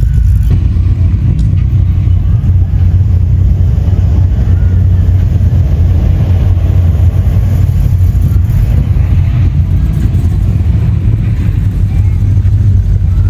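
A classic car's engine running with a steady low exhaust note as the car drives slowly past.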